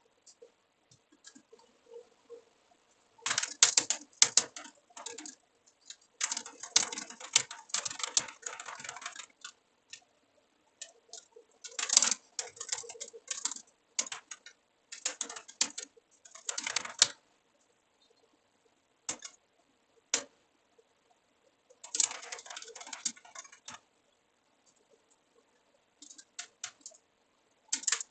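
Typing on a computer keyboard, in bursts of rapid key clicks a second or three long with short pauses between them.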